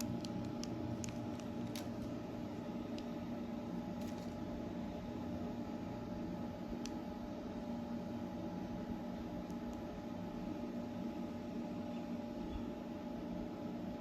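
Steady low background hum with a few faint clicks in the first few seconds.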